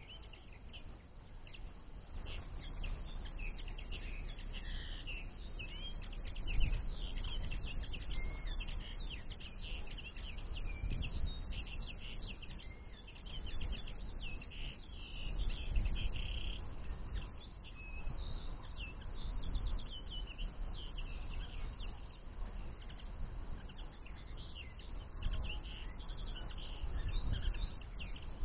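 Common linnets twittering: a fast, continuous run of short chirping notes, over a low rumble that rises and falls.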